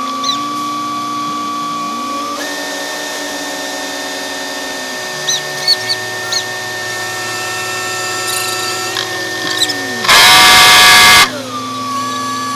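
Road-paving machinery running with a steady mechanical whine that shifts pitch a few times, with scattered clicks. A very loud burst of just over a second comes near the end.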